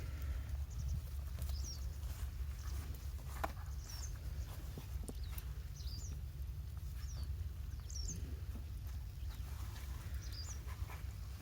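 A small bird chirping over and over, short high calls about once a second, over a steady low rumble, with a few faint clicks.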